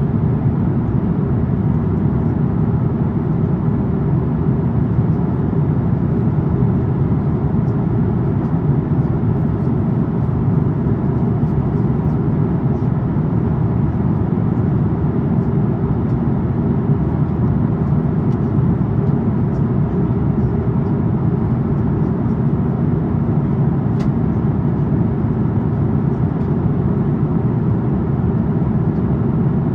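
Steady low rumble of air and the Rolls-Royce Trent XWB engines inside the passenger cabin of an Airbus A350-900 in flight, unchanging throughout.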